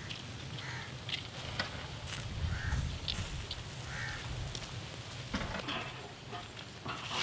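A bird calling three short times over a low steady outdoor rumble, with a few light clicks in between.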